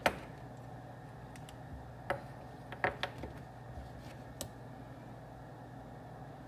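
Office room ambience: a steady low hum with a few sharp clicks and knocks, the loudest right at the start and others about two, three and four and a half seconds in.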